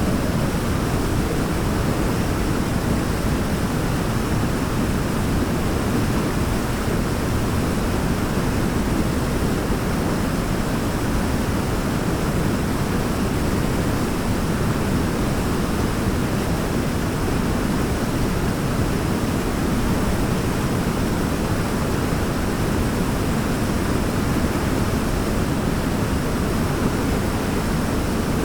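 Waterfall in a forest, a steady unbroken rush of falling water, heaviest in the low end.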